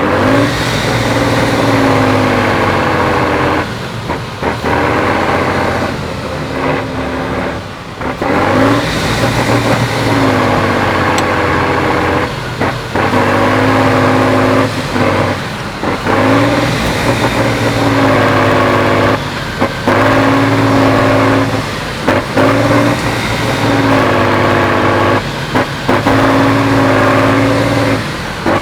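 Heavy off-road trial truck's engine working hard under load, revving in long pulls that cut out briefly every few seconds as the throttle is lifted and reapplied.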